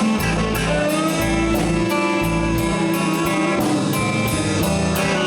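Live blues band playing a slow blues: guitar, bass guitar and drum kit, with the guitar holding one long, wavering note between vocal lines.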